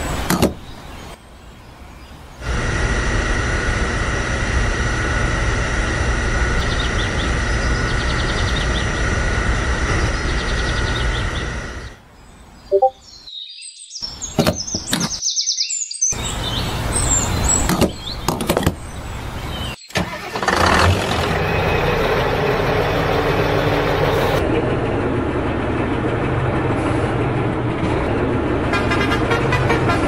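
Steady vehicle engine sound, which cuts off abruptly about twelve seconds in; after brief gaps and a short different noise, a rougher engine sound starts again about twenty seconds in and runs on.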